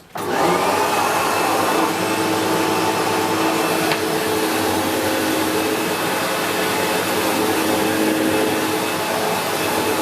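SEBO X4 Extra upright vacuum cleaner switched on: its motor spins up with a rising whine over the first second or two, then runs steadily.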